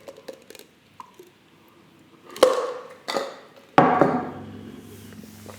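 Three sharp knocks on the tabletop about two-thirds of a second apart, each dying away quickly: dishes or utensils being handled during a meal.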